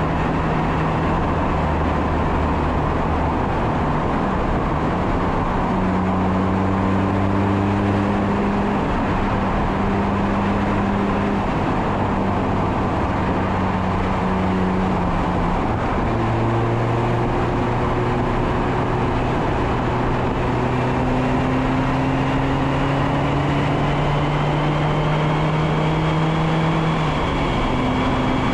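Mazda MX-5 Miata (ND2) four-cylinder engine pulling a car along under way, recorded from a bumper-mounted camera, with heavy wind noise over the microphone. The engine pitch drifts slowly and steps at gear changes about 5, 15 and 27 seconds in.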